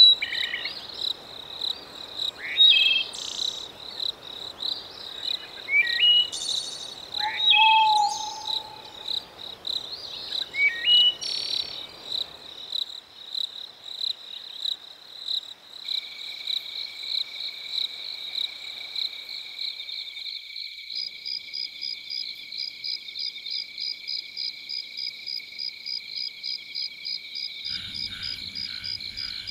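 Crickets trilling steadily in rapid pulses, with scattered short bird calls over a soft background hush for the first twelve seconds. The hush then drops out and several insect trills at different pitches carry on, and frogs begin croaking near the end.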